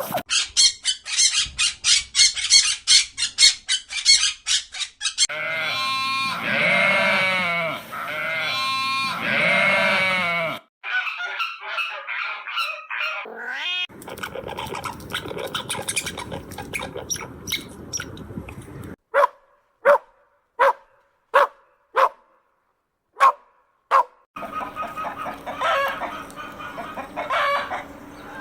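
A run of farm-animal calls that changes abruptly every few seconds, chiefly chickens clucking, with other livestock calls among them. It opens with a rapid train of short calls, has two long drawn-out calls in the middle, and later a string of about six short, separate calls.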